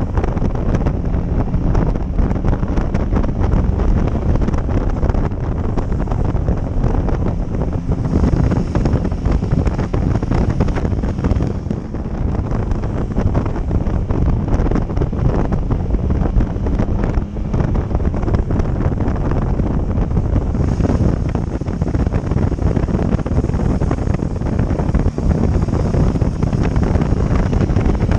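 Heavy wind noise buffeting the microphone of a moving motorcycle, with the engine and road noise running underneath.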